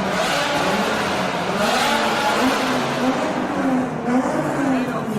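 A car engine being revved repeatedly, its pitch climbing and dropping several times in quick blips.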